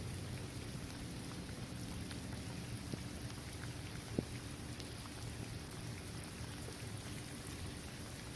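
Steady rain falling on a paved court, trees and grass, with scattered single drops ticking through it and one sharper drop tick about four seconds in.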